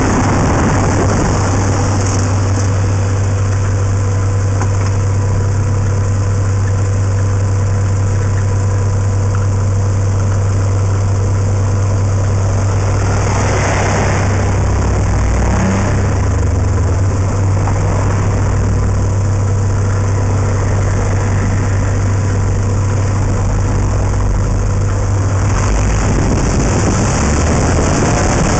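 Honda Integra Type R's four-cylinder engine running at steady revs with the car under way, picked up by a microphone mounted outside on the car's flank, over a haze of wind and road noise. The engine hum drops away near the end, leaving the wind and road noise.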